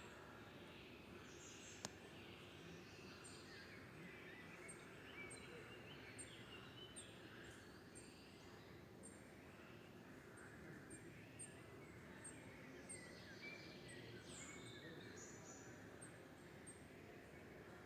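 Faint chorus of several birds singing and calling, with short high chirps repeating every second or so over a soft steady hiss, and one sharp click about two seconds in.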